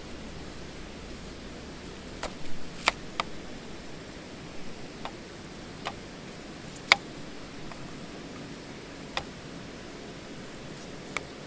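A steady hiss with about eight sharp, irregular clicks and pops, the loudest two near a third of the way in and past the middle.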